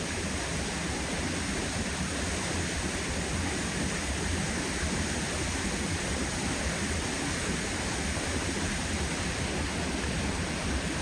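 Waterfall on a river rushing with a steady, even noise that does not change.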